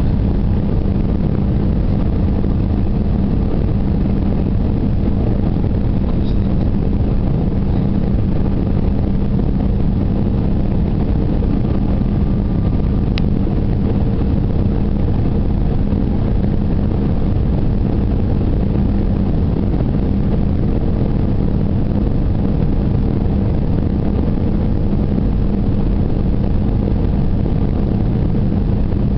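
Cabin noise of an Airbus A319 in flight on approach: the engines and airflow make a steady, even drone with a constant low hum.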